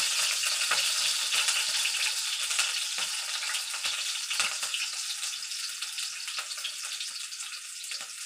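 Chopped green chillies and cumin seeds sizzling in hot oil in a pan. The steady hiss has a few pops and slowly dies down.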